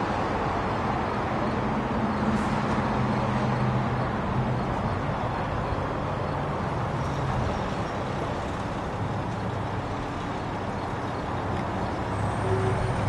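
Diesel rail equipment running past: a steady low engine hum under a broad rushing noise that eases a little mid-way and builds again near the end.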